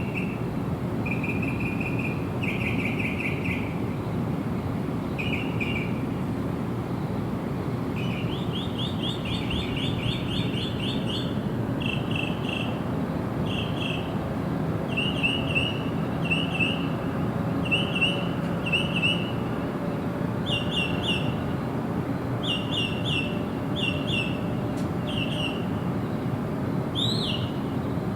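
Small birds calling in short, repeated bursts of quick chirps, with a pause between each burst. A steady low rumble of background noise runs underneath.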